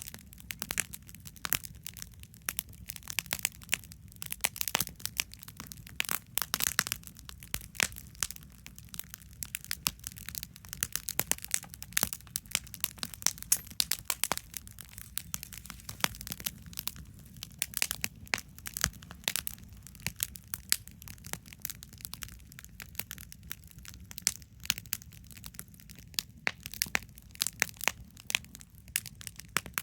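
Wood campfire burning, with dense, irregular crackles and pops from the burning wood over a steady low rumble.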